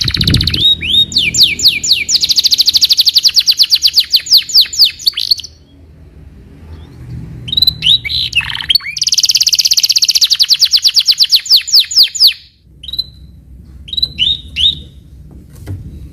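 Canary singing: two long, fast trills of rapidly repeated, downward-sweeping notes, with a short pause and a few separate notes between them, then scattered short chirps near the end.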